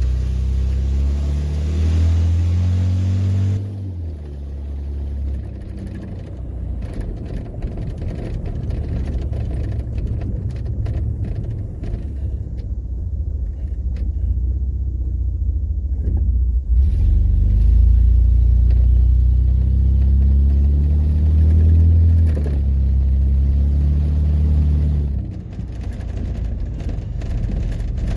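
1995 Ford F-150 engine running on open exhaust manifolds with the exhaust cut off, a loud deep rumble as the truck drives. It pulls harder and rises in pitch, eases off about four seconds in, then builds again in the second half and drops back near the end.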